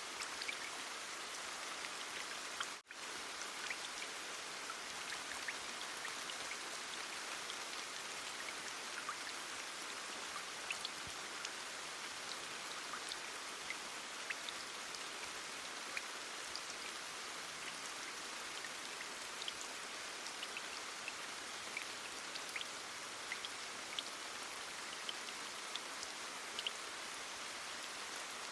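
Steady heavy rain, an even hiss with scattered individual drops ticking through it. The sound cuts out for an instant about three seconds in, then carries on unchanged.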